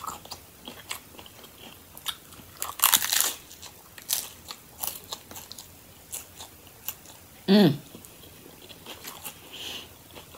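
Close-up crunching and chewing of a crispy hard-shell chicken taco: scattered crisp cracks and wet chewing, with one louder crunching bite about three seconds in. A short hummed "mm" comes from the eater about two-thirds of the way through.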